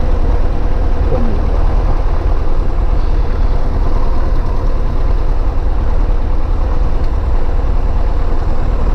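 Cessna 152's four-cylinder Lycoming engine and propeller running at a steady, loud drone.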